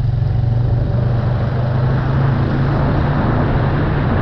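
Off-road vehicle engine running steadily while riding, a low steady hum with rougher noise building from about a second and a half in.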